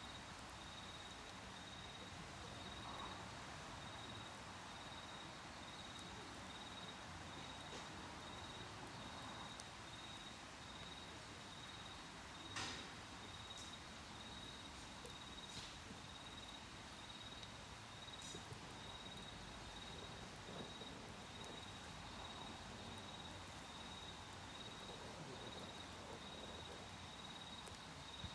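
Autumn insects singing a steady, pulsing high trill, with a wood campfire crackling faintly and giving a few sharp pops, the loudest about twelve seconds in.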